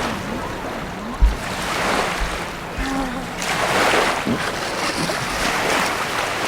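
Jet ski running across open water: rushing and splashing water that swells twice, with wind buffeting the microphone and a faint engine drone underneath. A sharp thump about a second in.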